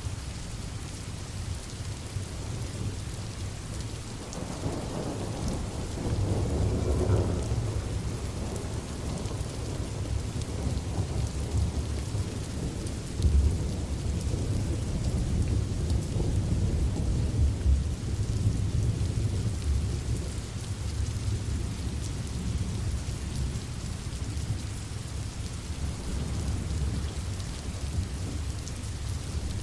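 Steady rain with rolling thunder. A low rumble builds about four seconds in, swells again in the middle and eases off toward the end.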